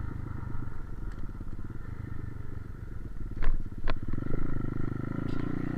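Pit bike engine running at low revs, with two sharp clicks about three and a half seconds in, then revving a little higher near the end.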